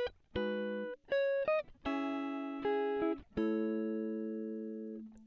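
Background music: plucked guitar notes and chords that start sharply and ring out, in short phrases broken by brief silent gaps.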